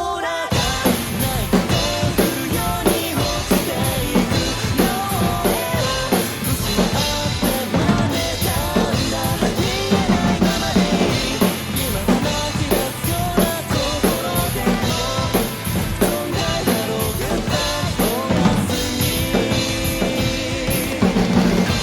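Drum kit played along to a pop-rock backing track: kick drum, snare and cymbals driving steadily under the song's melody.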